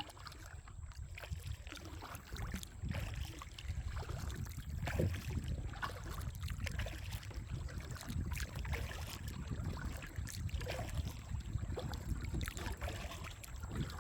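Kayak paddle strokes dipping and splashing in creek water, irregular and uneven, over a steady low rumble.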